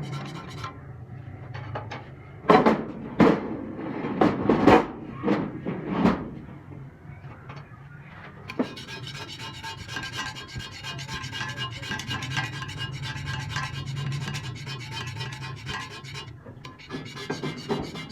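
Metal lathe running with a steady hum; several sharp knocks in the first six seconds, then from about eight and a half seconds a steady scraping hiss of a cutting tool working on a metal workpiece.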